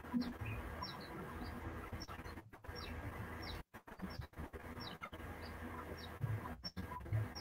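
Birds chirping in short, high, falling chirps a few times a second over a low hum and room noise, with a few low thumps, the loudest just after the start.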